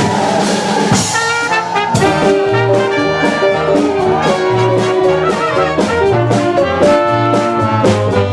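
Swing jazz led by a brass section of trumpets and trombones, playing over a steady beat.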